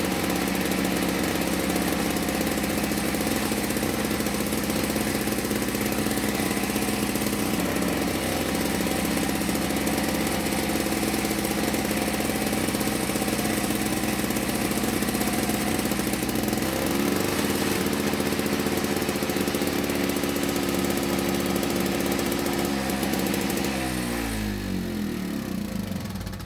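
Victa Tilt-A-Cut S90 power edger's two-stroke engine running steadily, then slowing in pitch and stopping near the end. It is running on because it would not shut off with its stop switch.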